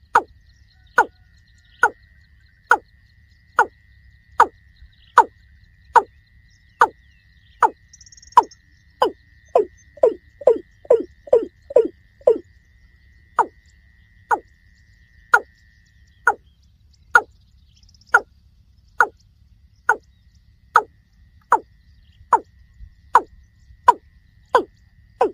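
Watercock (kora) calling: a long series of short, hollow notes that drop in pitch, a little more than one a second, breaking into a quicker run of lower notes, about three a second, near the middle before returning to the slower beat.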